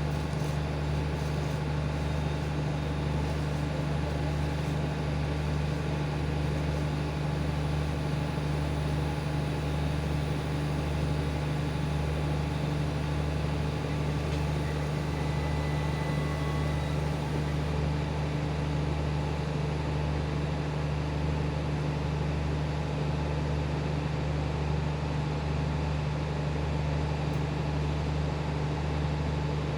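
Diesel train running with a steady low engine hum that does not change.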